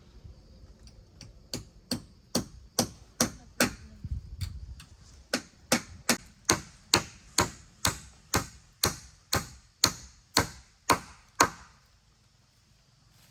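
Hammer blows on wood, a steady run of sharp strikes at about two a second with a short break about four seconds in, typical of nailing down floorboards.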